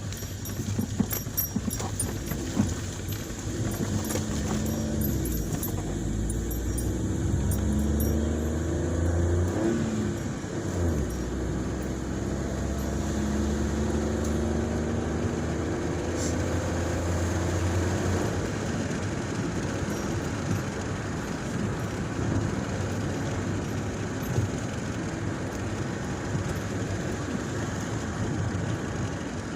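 A motor vehicle's engine running, its pitch rising and falling as it goes, over a steady road rumble.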